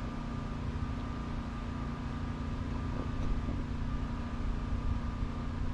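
Steady low rumble and hum inside an idling car, with the engine and climate fan running.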